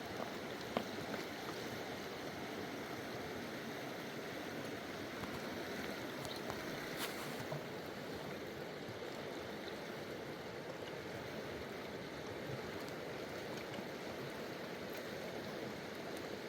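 Mountain river rushing steadily, a full, even flow of water, with a few faint ticks.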